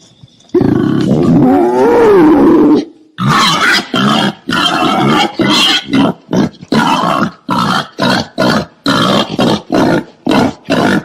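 Wild boar calling: one long call that rises and falls in pitch, then a fast run of short calls about two a second.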